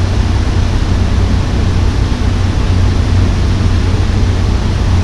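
Steady cockpit drone of a Cessna 208 Caravan's PT6A turboprop engine and propeller, a constant low hum under a broad even rush, heard inside the cabin.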